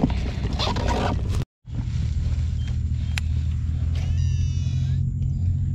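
A boat engine running at a steady speed, a low, even drone, which starts after a brief dropout about a second and a half in.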